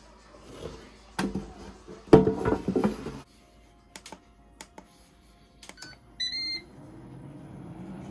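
Ninja DualZone air fryer being set and started: clatter and knocks about a second in, several sharp clicks of its control-panel buttons, one short beep just past six seconds, then its fan starting up with a rising whir as cooking begins.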